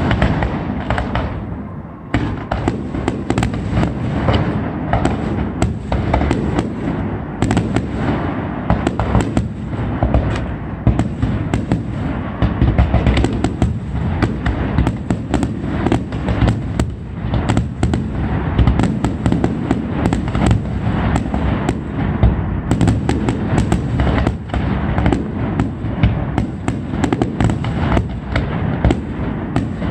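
Fireworks display in a dense barrage: rapid, overlapping bangs and crackles over a continuous low rumble of explosions. The barrage thickens about two seconds in and stays unbroken.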